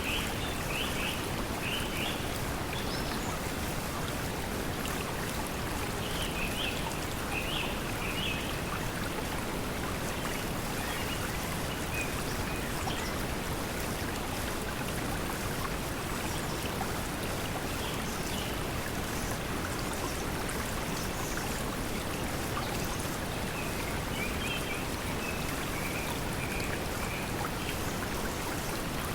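Steady pink noise mixed with flowing stream water, with clusters of short, high bird chirps near the start, about a quarter of the way in, and again near the end.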